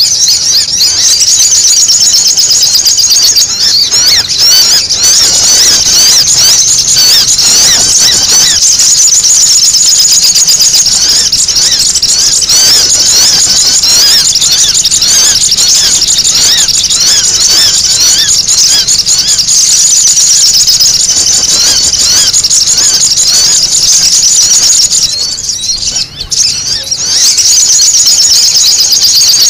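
Sogon sunbirds calling in a noisy flock: a dense, continuous chatter of high, rapid chirps and twitters, used as a lure call to draw the birds in. It thins briefly near the end.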